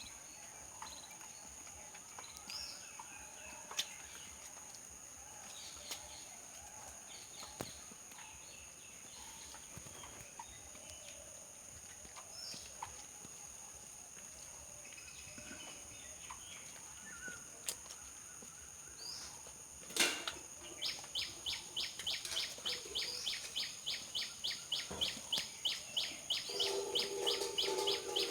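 Outdoor ambience with a steady high insect whine and occasional bird chirps; about two-thirds of the way in, a rapid, regular run of high chirps starts, about four a second, joined near the end by a lower, drawn-out call.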